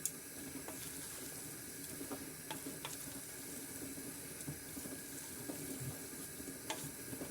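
A spoon stirring moist cooked oat semolina with a seafood sauce in a dish: a soft, steady wet churning, with a few light clicks of the spoon against the dish.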